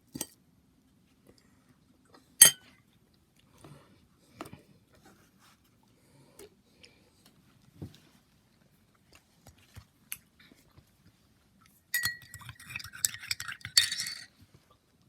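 Cutlery clinking against dishes during a meal: scattered single clinks, the sharpest about two and a half seconds in, then a burst of rapid clattering with a brief ring near the end.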